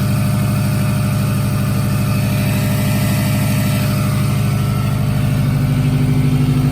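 Subaru WRX's freshly swapped JDM flat-four engine idling with an even pulse, getting slightly louder near the end. Mixed in is a weird noise from the accessory drive, first taken for an AC compressor bearing and then traced by the owner to a loose AC belt.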